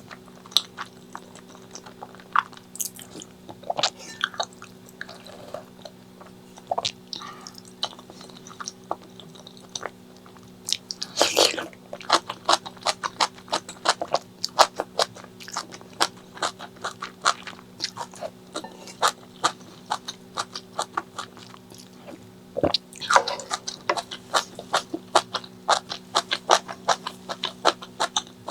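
Close-miked eating: crunchy bites and chewing, with a rapid run of crunching clicks starting about eleven seconds in and another near the end.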